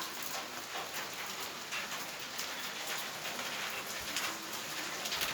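Steady heavy rain falling, with many separate drops hitting.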